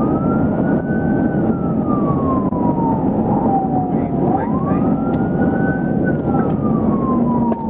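Police siren on a slow wail, its pitch climbing quickly and then sliding down over a few seconds, repeating about every four and a half seconds, over steady vehicle engine and road noise.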